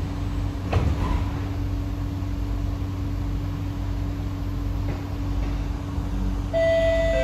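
Inside an SMRT C151A train carriage: a steady hum over a low rumble, with a sharp knock about a second in. Near the end a chime of several notes sounds.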